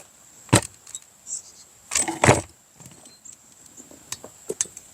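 Tools and engine parts knocking and clinking as a string trimmer's engine is taken apart by hand: a sharp knock about half a second in, a cluster of knocks around two seconds, and a few lighter clicks near the end.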